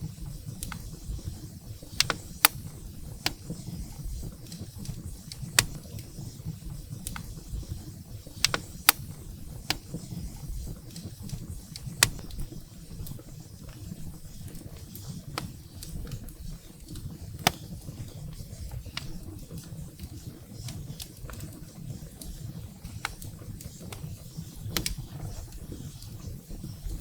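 Firewood burning in a fireplace: irregular sharp crackles and pops, some much louder than the rest, over a steady low rumble of the flames.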